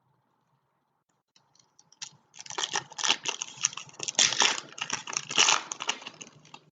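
Foil trading-card pack wrapper being torn open and crinkled: a dense run of crackling and small clicks lasting about four seconds, starting a couple of seconds in.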